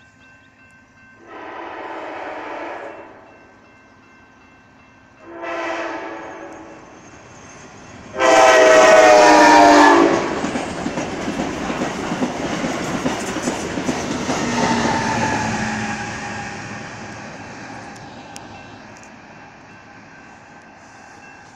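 Amtrak Cascades Talgo passenger train sounding its horn for the grade crossing: three blasts, the last the loudest and longest as the train reaches the crossing. Then the rush and rail clatter of the low Talgo cars passing, fading as the train moves away.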